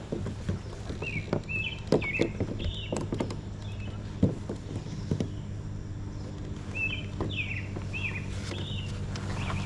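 A songbird singing two short runs of quick chirped notes, a few seconds apart, over a steady low hum and scattered light clicks and knocks.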